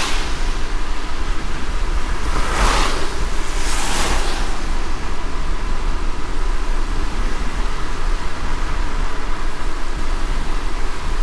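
Light rain and the low rumble of a car driving on a wet road, a steady hiss, with two brief swishes about three and four seconds in.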